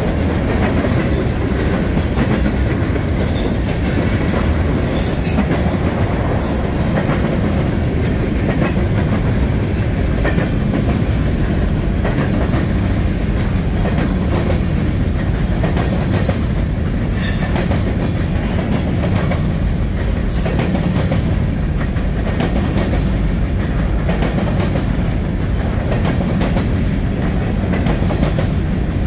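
Freight train cars rolling past at steady speed: wheels clicking over rail joints, with a few brief, faint wheel squeals.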